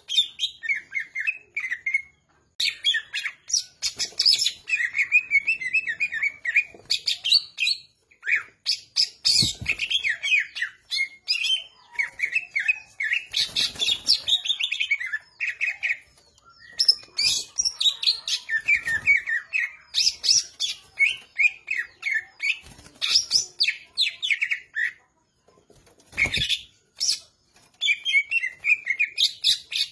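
A cucak ijo (green leafbird) singing in full voice: fast, varied phrases of chirps and whistles, one after another, with short breaks between phrases.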